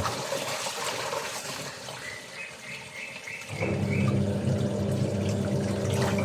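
Running water from laundry washing, a steady rush with a low hum that drops away at the start and comes back about three and a half seconds in. In the quieter gap a short run of about six high chirps sounds, typical of the insects or birds calling at dusk.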